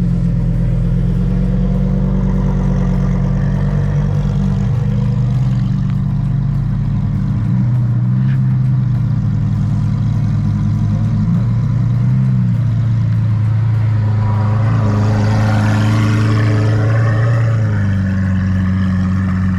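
Car engine running steadily with a deep hum, its pitch shifting about two-thirds of the way through, then a brief rise in revs.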